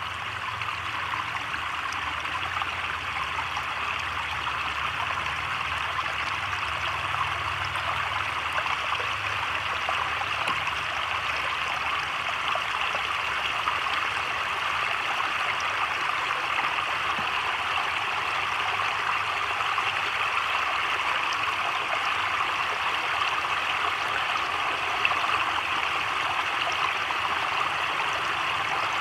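Heavy rain falling on a creek's surface and the surrounding leaves: a steady, even hiss with no thunder.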